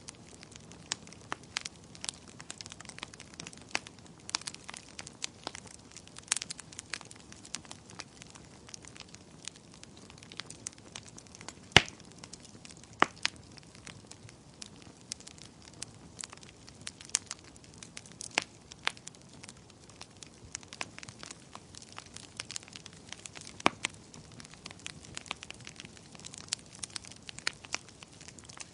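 Wood fire crackling: irregular sharp pops and snaps over a soft steady hiss, with one louder pop about twelve seconds in.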